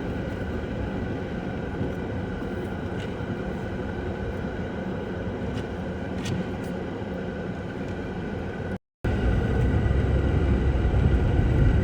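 Steady vehicle noise, a running engine and road rumble. The sound cuts out for a moment about nine seconds in and returns with a louder low rumble.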